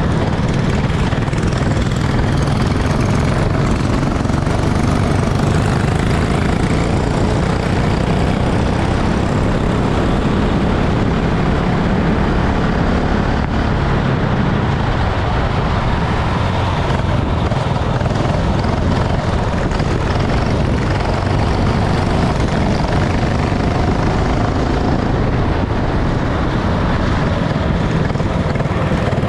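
Racing kart engine running steadily at speed under a dense rushing noise.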